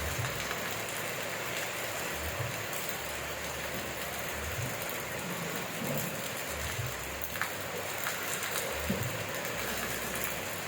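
Steady heavy rain hissing, with scattered close drop ticks and soft low thuds every second or two.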